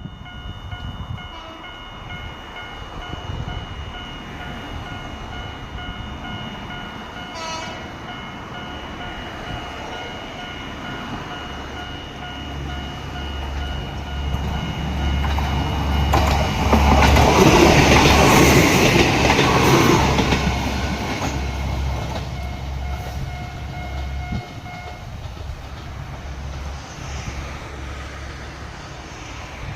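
Shimabara Railway diesel railcar running on the line, its engine drone growing and peaking loudly just past the middle, then easing off. A set of steady whining tones sounds through the first half.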